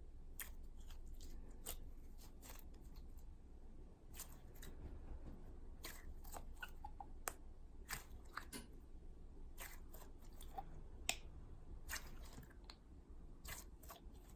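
Slime being kneaded by hand: irregular small clicks, pops and crackles as air pockets burst in the dough, a few each second.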